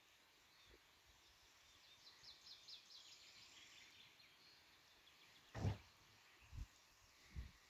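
Faint bird song: a quick run of about six high notes, each dropping in pitch, about two seconds in. Later a few dull low thumps follow, the first the loudest.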